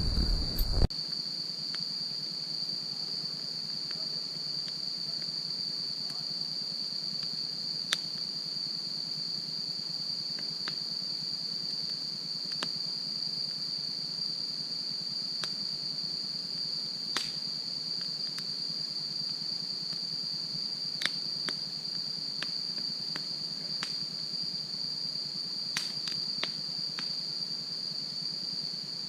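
Steady high-pitched insect trill, crickets, with scattered sharp pops and crackles of wood burning in a campfire. A brief low rumble in the first second.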